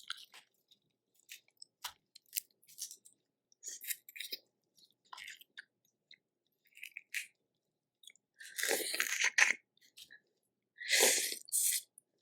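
Close-up eating of shell-on seafood from a Cajun boil: chewing with scattered small clicks and cracks, and two louder crunching bursts, one just past the middle and one near the end.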